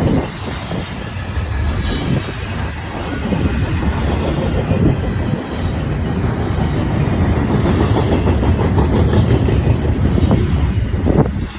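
A train passing close by, its wheels rumbling and clattering over the rails; the sound falls off suddenly near the end.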